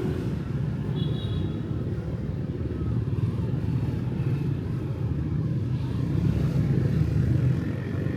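Street traffic of motorbikes and cars passing, a steady low engine and tyre rumble that swells a little as one passes about six seconds in.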